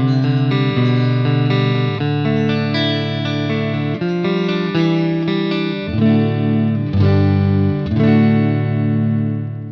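Electric guitar with Leosounds Fireball pickups played clean through a Fender Bassman amp: a run of sustained, ringing chords changing about once a second, the last one fading away at the end.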